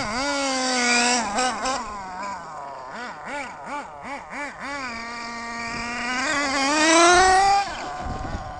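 SH .18 two-stroke nitro engine of a 1/8-scale RC buggy being revved during carburettor needle tuning. About three seconds in there is a run of quick throttle blips, then a steady note, then a long climb to the loudest high rev about seven seconds in. The engine drops back sharply after that climb.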